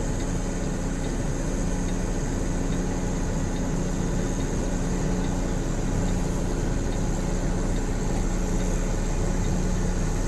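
Heavy diesel truck engine running steadily at an even, low speed, with no revving.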